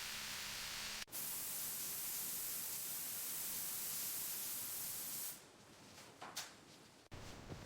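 A steady, even hiss of a spray that breaks off for an instant about a second in and stops about five seconds in, followed by a short swish.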